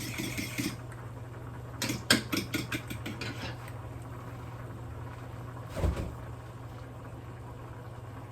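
Kitchen handling noises: a quick run of clicks and knocks about two seconds in, then a single thump near six seconds, over a steady low hum.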